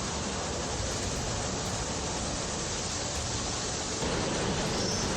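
Rough water surging and churning in violent waves, a steady rushing roar that grows a little louder about four seconds in.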